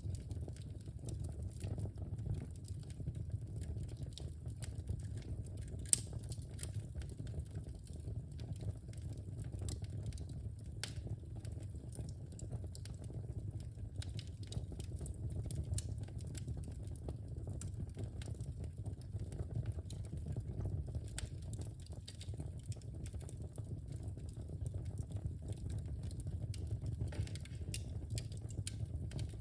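Wood fire burning in a fireplace: a steady low rumble of flames with frequent small crackles and pops, and one sharper crack about six seconds in.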